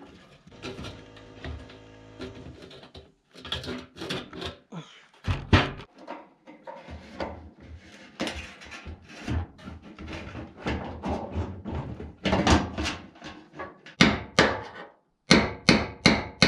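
Irregular knocks, taps and clatter of hard parts being handled and fitted by hand, coming faster and louder in the last few seconds.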